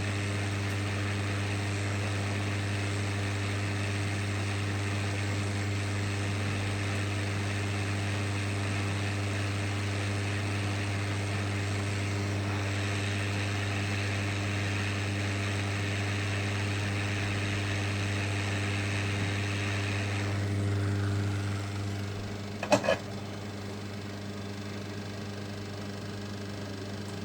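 Electronics repair bench equipment running: a steady electrical hum with a hiss of moving air, the hiss falling away about twenty seconds in, followed shortly by a sharp click.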